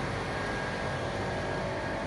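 Heavy fire-truck diesel engine running steadily, a low rumble with a faint steady whine over it.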